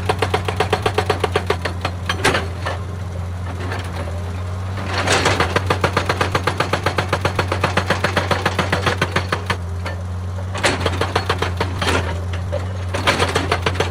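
Excavator-mounted hydraulic rock breaker hammering stone in runs of rapid blows, several a second. It pauses a few times and starts again, over the steady hum of the machine's diesel engine.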